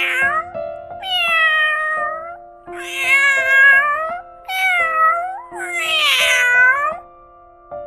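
Domestic cat meowing: a series of about five drawn-out meows, each about a second long and falling in pitch, over steady background music.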